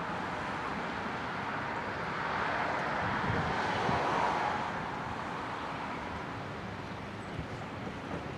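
Outdoor background noise of a passing vehicle in the distance, swelling and then slowly fading.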